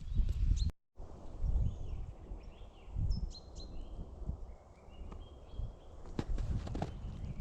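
Small birds chirping in short whistled notes over low crunching and rustling footsteps in snow. The sound cuts out completely for a moment about a second in, and a few sharper crunches come near the end.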